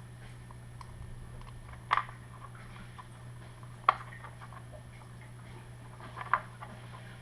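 A few light clicks and taps, about two seconds apart, of a hand tool and small parts on an RC truck's motor mount screws, over a steady low hum.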